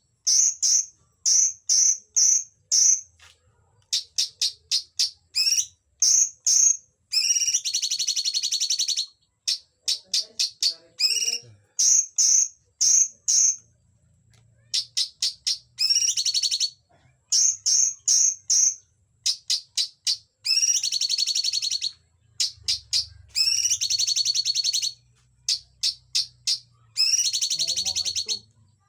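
A cungkok bird singing: groups of short, high, clear notes, three to five at a time, alternating with rapid trills that last about one and a half to two seconds each, repeated with short pauses in between.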